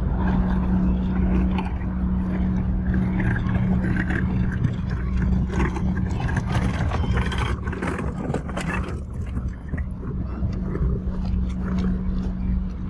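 A motor running steadily with a low hum and rumble, and a spell of clicking and clatter in the middle.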